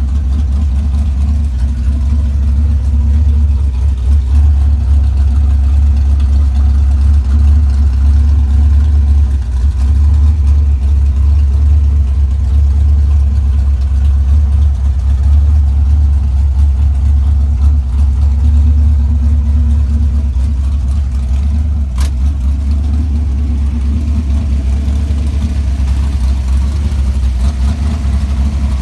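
Big-block 440 V8 with a tunnel ram in a 1965 Dodge Coronet, running steadily and loud with a deep, even drone.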